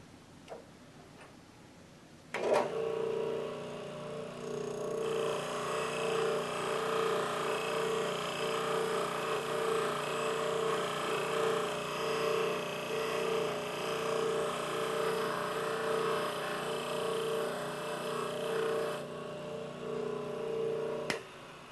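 Bench buffer with a cloth buffing wheel switching on about two seconds in and running with a steady hum. From about five seconds in, a metal part is pressed into the compound-charged wheel, adding a rushing hiss that lasts until near the end, when the buffer cuts off.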